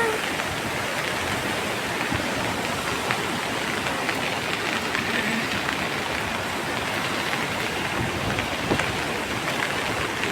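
A river in flood after heavy rain, its water rushing and churning with a steady noise.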